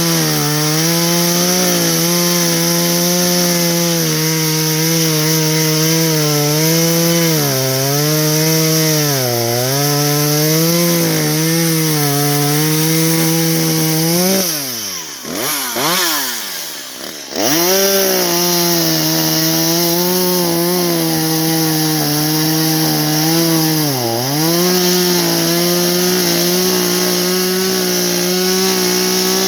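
Two-stroke gas chainsaw running at high revs and cutting firewood, its pitch sagging briefly again and again as the chain bites into the wood. About halfway through the throttle is let off and the engine drops away, then revs back up and carries on cutting.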